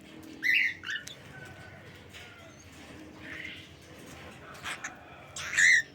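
Cockatiels calling: two short chirps about half a second in, then a louder sweeping call near the end.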